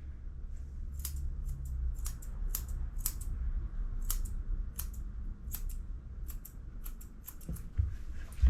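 Grooming scissors snipping fur around a puppy's feet: about twenty quick, sharp snips in small irregular clusters. A low bump near the end.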